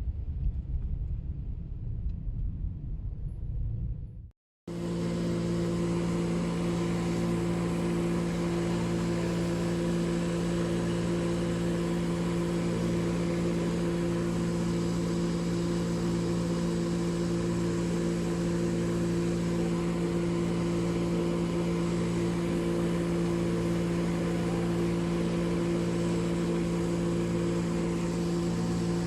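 A low rumble, then after a cut about four seconds in, a vacuum suction truck's engine and pump running at an unchanging pitch, a steady drone as it sucks flood water off the road.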